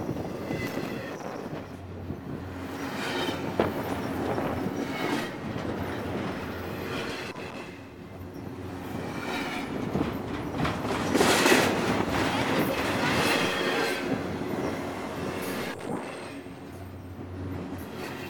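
Freight train boxcars rolling past close by: steel wheels rumbling and clattering on the rails, with recurring high wheel squeals. It is loudest a little past the middle.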